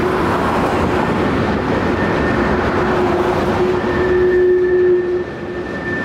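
Freight cars rolling past on a curve: steady rumble and clatter of steel wheels on rail, with a sustained wheel squeal that grows stronger in the second half.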